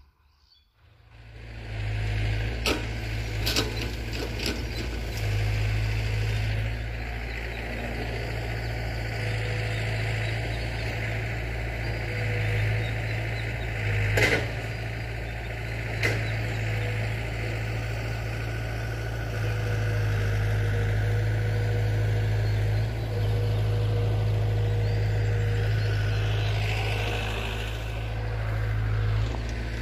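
Heavy earth-moving machinery's diesel engine running steadily with a low drone that swells and eases at times, and a few sharp knocks from the work.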